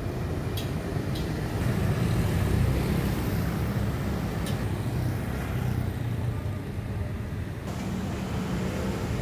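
Steady low hum of road traffic with engine noise, a few faint clicks near the start.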